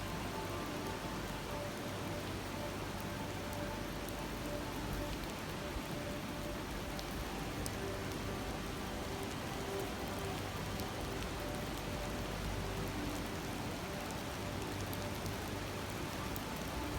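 Shallow stream babbling steadily over stones, with a few faint sharp crackles from a wood campfire.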